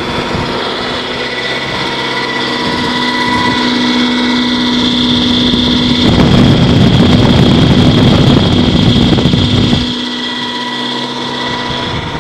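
Generator engine running steadily at a constant speed, with an even hum. For about four seconds in the middle, a loud rushing noise swells over it and then drops away.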